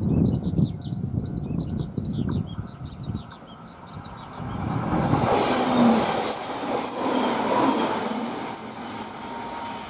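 Birds chirping over a low rumble, then from about five seconds in a JR Shikoku 8000-series electric train passing close by, its wheels and running gear giving a loud rushing rumble with a faint steady whine near the end.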